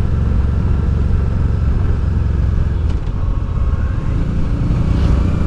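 Honda Deauville's V-twin engine running under way, with steady road and wind noise; near the end the engine note rises slightly as the bike picks up speed.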